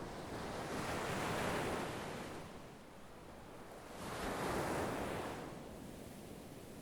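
Sea waves surging in and washing back, two swells of surf about three seconds apart.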